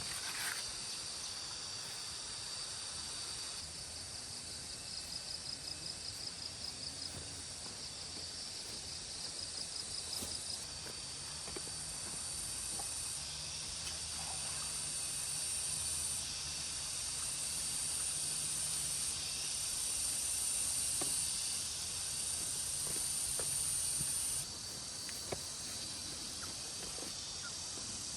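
Insects chirring in a steady, high-pitched chorus whose pitch and loudness shift every few seconds, with a fast pulsing trill in the first third. A single click comes right at the start.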